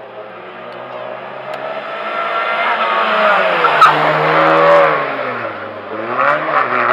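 Race car engine at high revs approaching and passing, growing louder to a peak about four to five seconds in. Near six seconds the engine note dips and then climbs again.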